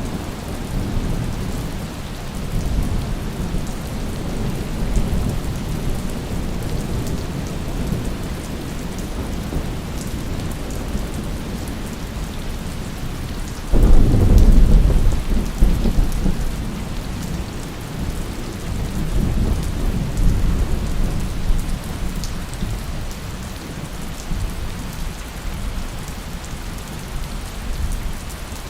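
Steady heavy rain with rolling thunder. About halfway through, a loud thunderclap breaks in suddenly and rumbles away over several seconds, and a further swell of rumbling follows.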